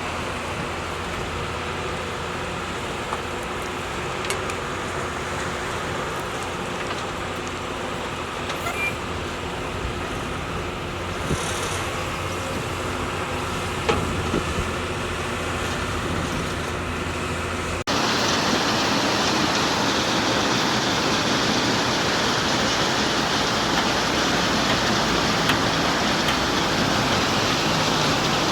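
Heavy diesel construction machinery running steadily, with a few sharp knocks near the middle. About two-thirds of the way through, the sound cuts abruptly to a louder, even rushing noise.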